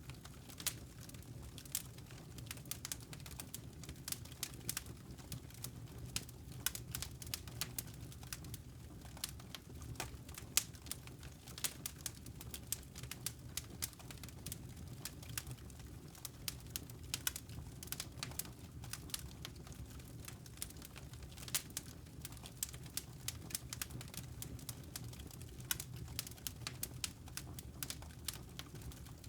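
Wood fire in a fireplace crackling: irregular sharp snaps and pops over a steady low rumble of burning.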